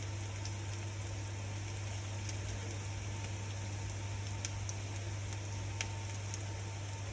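Food sizzling in a pan, a steady hiss with scattered small pops, over a steady low hum.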